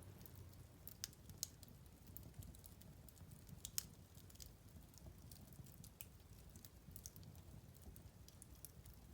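Wood fire crackling in a fireplace: faint, irregular sharp pops and snaps over a low rumble, with a few louder pops about a second in, near a second and a half, and just before four seconds.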